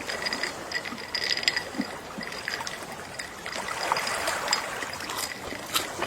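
Gentle sea waves washing onto a shore, a steady rush of water with many small crackles and clicks as it laps and drains back.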